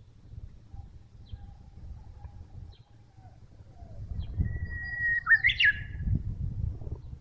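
Japanese bush warbler (uguisu) singing one 'hoo-hokekyo' phrase, a long steady whistle followed by a quick rising and falling flourish, about halfway through. Fainter short bird calls come before it, and a low rumbling noise runs underneath in the second half.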